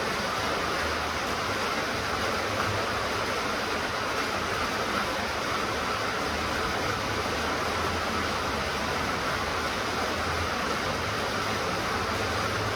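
Steady rain falling, an even hiss with a low rumble that comes and goes underneath.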